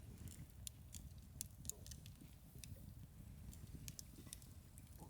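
Wood campfire crackling faintly, with scattered sharp pops at irregular intervals over a low steady rumble.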